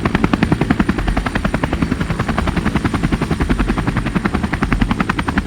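Helicopter rotor blades chopping with a rapid, even beat, the engine and rotor running steadily.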